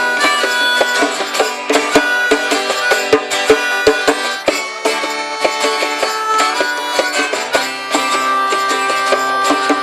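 A live folk band plays an instrumental passage between sung verses: plucked and strummed strings with held melody notes over them.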